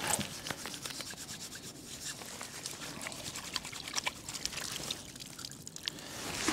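Water trickling and dripping in small scattered splashes as someone washes their face and hands with poured water.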